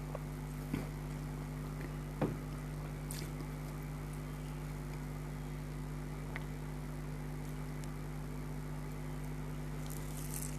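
A steady low hum runs throughout, with a few faint sharp clicks and crunches of eating; the loudest click comes about two seconds in, and a short crackle comes near the end.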